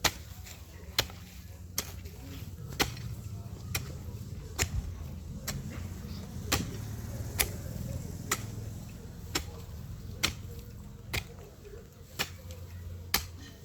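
Steady series of sharp strikes of a digging tool into soil, about one a second, as small planting holes for corn are dug along a row.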